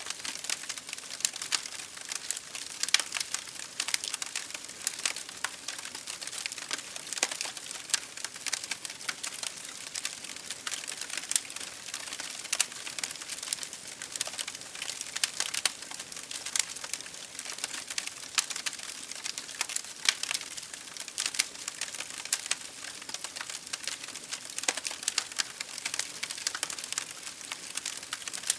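Wood fire burning in an open fireplace, crackling steadily with many small irregular pops and snaps over a soft hiss.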